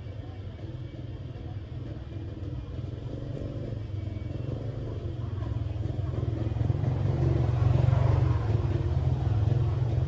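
A small engine running with a steady low rumble, growing louder over the second half.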